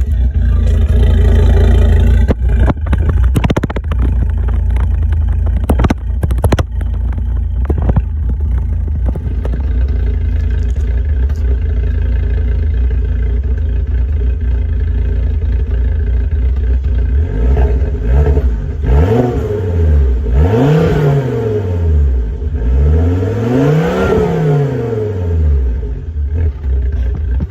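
Volvo car engine running with a steady low rumble, then revving up and down several times in the last third, during a test of a slipping automatic transmission just refilled with new fluid. A few sharp knocks come in the first several seconds.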